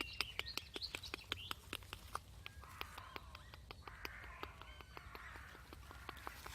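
Common nightingale singing high chirping phrases for the first second or so, then a crow cawing hoarsely for a few seconds. Many small sharp clicks run underneath.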